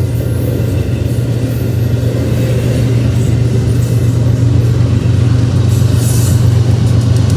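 Steady, loud low engine rumble of passing vehicles.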